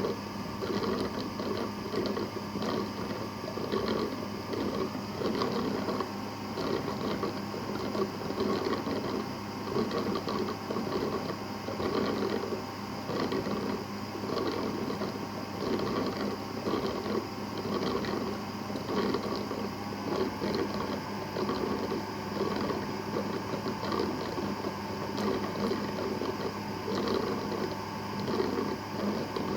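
Roborock Qrevo S robot vacuum running: a steady motor and fan whine over a rapid, fluttering mechanical churn from the brushes. The whine shifts slightly in pitch about twenty seconds in.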